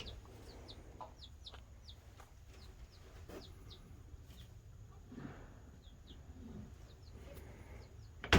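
Chickens peeping: many short, high chirps that slide downward, the calls of baby chicks, with a few soft, low clucks about five and six and a half seconds in.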